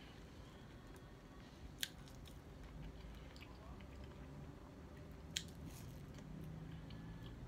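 Close-miked mouth sounds of someone chewing and biting KFC fast food, with two sharp clicks, about two seconds in and again past five seconds.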